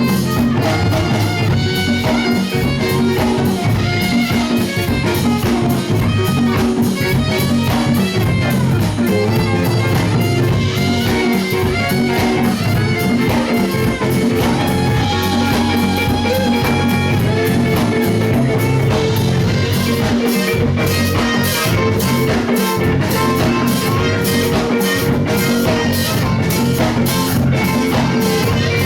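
Live band playing a song, with guitar and drum kit; the cymbals beat steadily through the second half.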